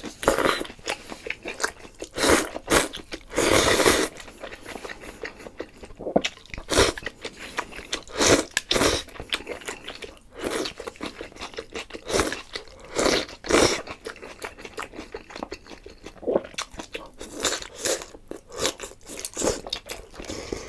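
Close-miked eating: crunchy bites and chewing in irregular bursts, the loudest run of crunches coming between about two and four seconds in.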